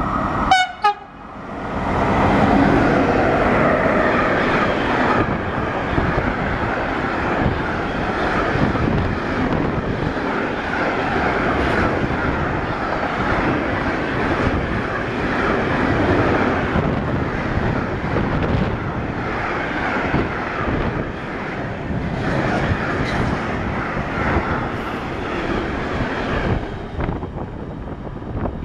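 A freight train of container and tank-container wagons running through close by, a steady loud noise of wheels on rail for about 25 seconds that drops away near the end as the last wagons pass. A short horn toot sounds just at the start.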